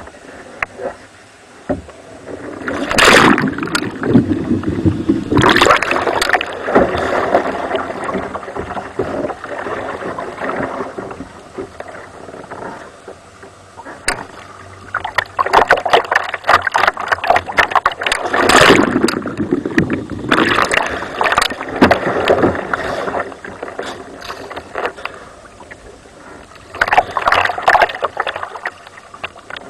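Water splashing and sloshing around a kayak as it is rolled onto its side and back up, in three loud bouts: a few seconds in, around the middle, and near the end. Quieter lapping water lies between the bouts.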